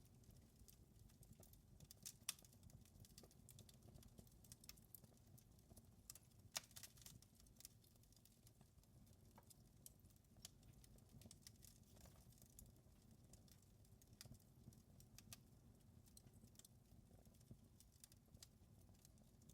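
Quiet wood fire crackling, with irregular small snaps and pops over a low steady rumble, two louder pops a couple of seconds in and again about six and a half seconds in.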